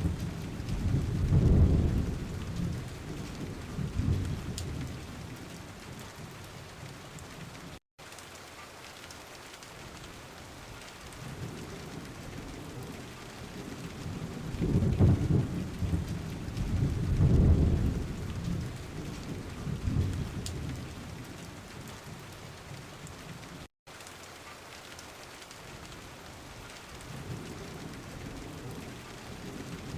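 Thunderstorm: steady rain with low rolling thunder rumbles that swell about a second in, again in the middle, and near the end. The audio drops out for an instant twice.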